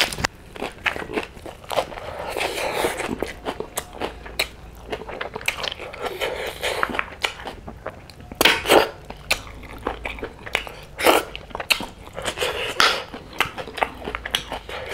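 Close-miked chewing of a mouthful of fresh lettuce leaf and snail curry: crisp crunching and wet smacking, with many short sharp mouth clicks and a few louder crunchy bursts.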